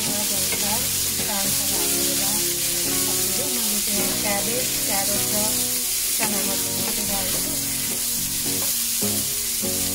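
Shredded cabbage, carrot and beans sizzling in hot oil in a wok, stirred and tossed with a wooden spatula. Background music plays along with the steady sizzle.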